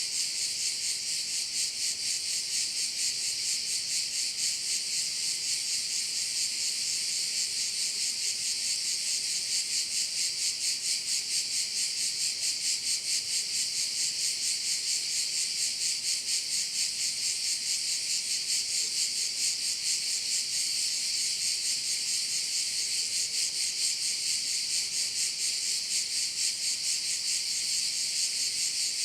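A dense chorus of cicadas singing, a steady high buzz with a fast pulsing that never lets up.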